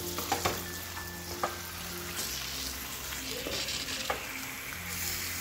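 Raw chicken pieces sizzling in hot oil and spice masala in a kadai while being stirred with a steel ladle. The ladle clicks against the pan a few times in the first second and a half.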